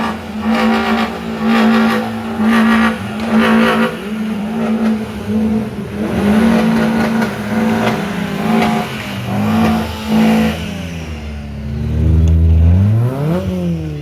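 Car engine revved hard in quick pulses, roughly once a second, then swept up and back down in one longer rev near the end.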